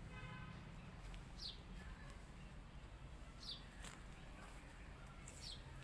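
A small bird chirping in the background: short, high, falling chirps about every two seconds over a low steady hum, with a brief pitched call right at the start.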